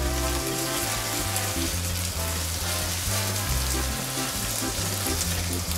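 Rice frying in hot oil with a cuttlefish-and-ink sofrito in a paella pan, a steady dense sizzle as it is stirred. Background music with a bass line plays under it.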